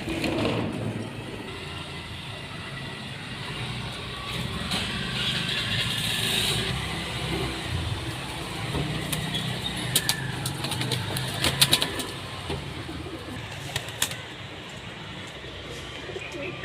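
Pigeons cooing in low, steady phrases, with several sharp clicks in the second half.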